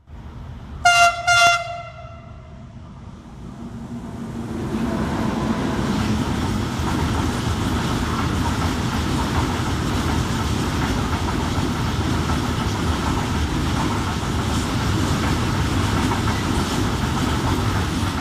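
Train horn gives two short blasts, then a freight train runs past: the rumble builds over a few seconds and the string of covered wagons rolls by steadily, wheels on rails, easing off at the end.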